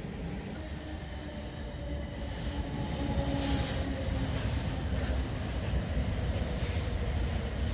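South Western Railway Class 455 electric multiple unit moving slowly along the platform, its wheels rumbling on the rails, growing louder from about two seconds in.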